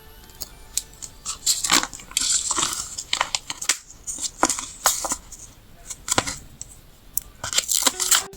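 Paper stickers and sticker sheets being handled up close: an irregular run of crisp rustles and peels with sharp clicks and taps. The busiest stretches are in the middle and near the end.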